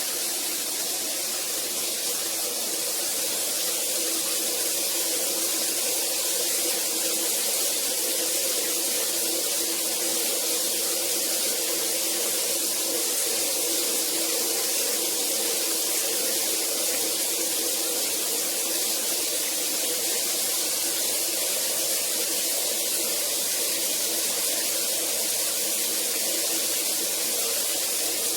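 Shower head spraying water, a steady even hiss of falling water.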